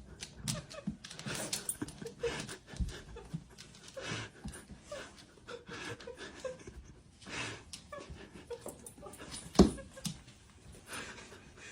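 A dog panting in quick, uneven breaths, with one sharp thump about ten seconds in.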